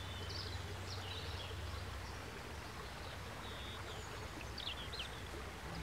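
Outdoor ambience: small birds chirping now and then over a steady low hum of background noise.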